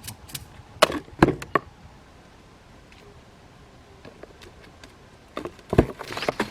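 A series of sharp knocks and taps in two clusters: several in the first second and a half, then a quiet stretch, then another run near the end.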